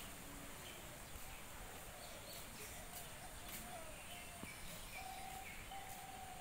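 Faint, steady outdoor hiss with distant birds calling: short high chirps and several longer, lower held notes.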